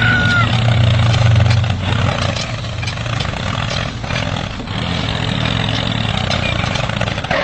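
Tractor engine running hard with a steady low hum, louder in the first two seconds and then holding steady.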